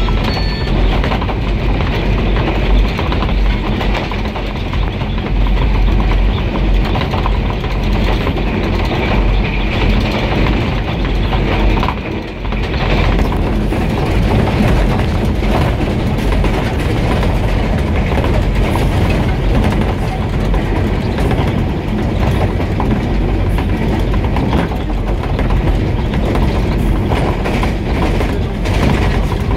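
ZCU-20 diesel-electric locomotive running along the track at speed: a steady mix of engine and wheel-on-rail noise, with the clickety-clack of rail joints.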